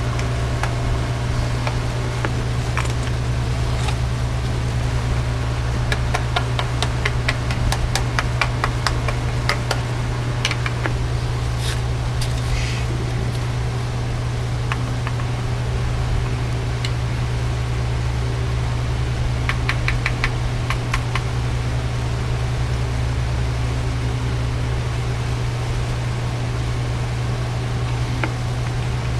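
Steady low electrical hum from the repair-bench equipment, with a few runs of small sharp clicks about a quarter of the way in and again past halfway.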